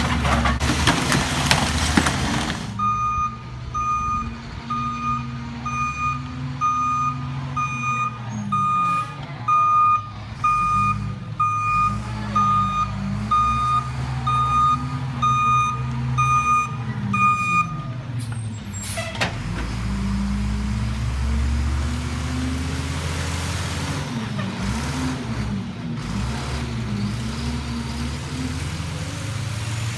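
Garbage truck's diesel engine running while its reversing alarm beeps about once a second for some fifteen seconds. A short, sharp burst of noise comes just after the beeping stops, and the engine pitch rises and falls.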